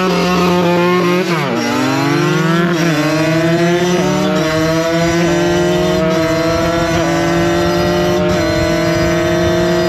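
Two-stroke supermoto motorcycle accelerating hard from a countdown launch. The engine pitch climbs and drops sharply at each upshift, about six times, quickly at first and then more slowly as the bike gathers speed.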